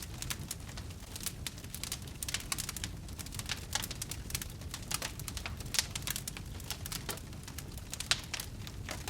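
Wood fire burning in a fireplace, crackling with many irregular sharp pops and snaps over a low, steady rumble of the flames.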